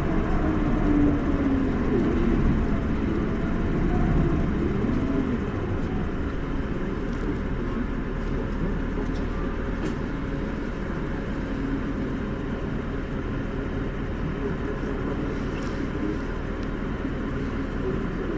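Isuzu Erga (2PG-LV290N2) city bus's four-cylinder diesel engine running, a steady drone with road noise, a little louder in the first few seconds.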